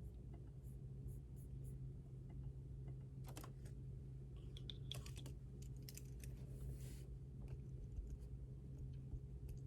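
Computer keyboard typing in a few short bursts of keystrokes, mostly between about three and seven seconds in, over a steady low hum.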